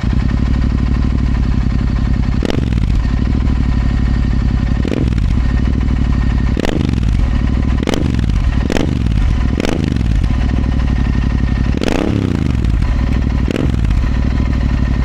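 Royal Enfield Continental GT motorcycle with an aftermarket scrambler exhaust, idling and blipped about eight times, each a quick rise and fall in revs, with the exhaust note sounding loud.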